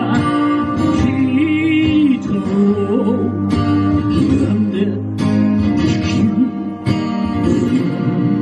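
Live band playing an instrumental passage of a folk ballad: strummed acoustic guitar over a steady drum beat, with a wavering melody line on top.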